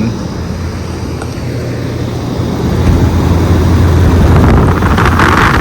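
Two LG variable-speed window air conditioners running: a steady low compressor hum under the rush of their fans, growing louder about halfway through.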